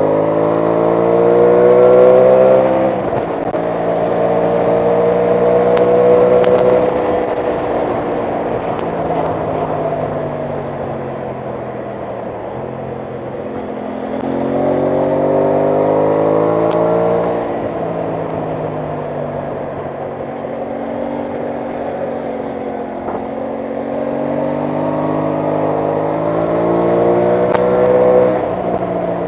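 Aprilia Tuono 660 Factory's parallel-twin engine under way, rising in pitch as it accelerates and dropping sharply at upshifts about three seconds in and near the end. In between it eases off and slowly falls, then picks up again, with steady wind rush over the microphone.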